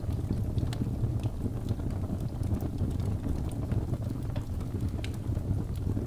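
Wood logs burning in a fireplace: a steady low rumble of the flames with frequent, irregular sharp crackles and pops.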